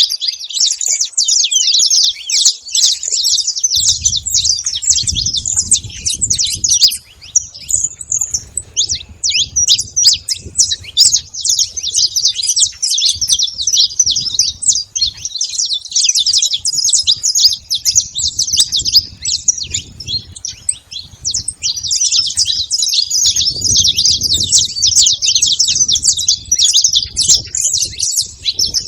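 Saffron finch singing: a fast, dense run of high notes almost without pause, easing off briefly about a quarter of the way in before going on.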